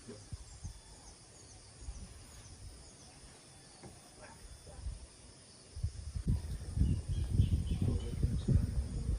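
Outdoor ambience: a steady high hiss with faint insect or bird chirps. From about six seconds in, irregular low rumbling buffeting, typical of wind on the microphone, grows louder.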